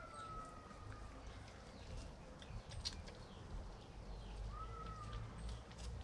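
Two thin whistled bird calls, one drawn out and slightly falling near the start and a short arched one about four and a half seconds in, over a faint outdoor hush with a few soft clicks.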